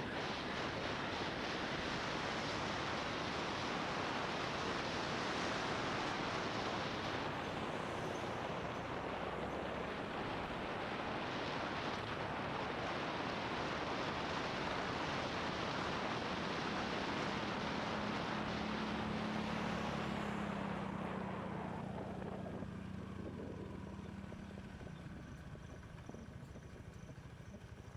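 Wind rushing over the camera microphone of a motorbike riding downhill, with a low, steady engine note coming through. About two-thirds of the way in, the wind noise falls away and the bike sounds quieter, as it slows.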